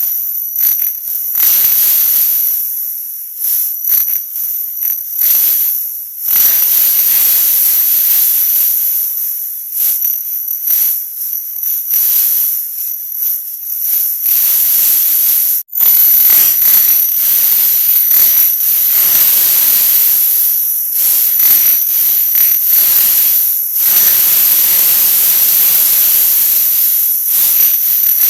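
A 'wah wah' sound effect sped up so far that it no longer sounds like notes: a loud, harsh high hiss with steady high whines in it, flickering rapidly, with a brief cut-out partway through.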